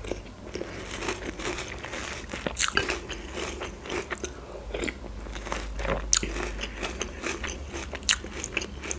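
A person chewing a mouthful of filled cereal pillows in milk, with many crisp crunches scattered throughout.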